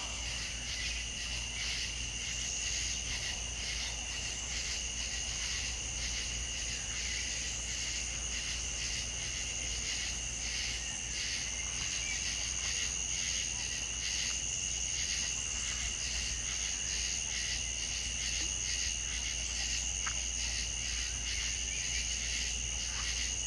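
Insect chorus of crickets: a steady, fast-pulsing trill in two high bands, unbroken throughout, over a low steady rumble.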